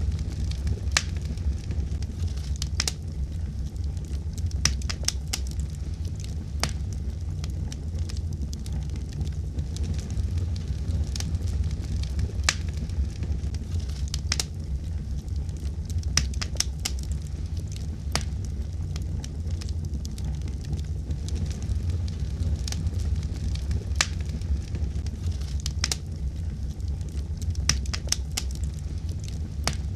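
Wood fire crackling: a steady low rumble of burning with sharp, irregular pops and snaps scattered throughout.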